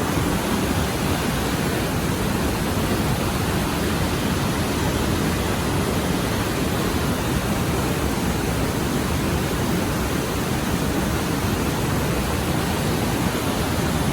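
Steady, even rush of falling water from Niagara Falls.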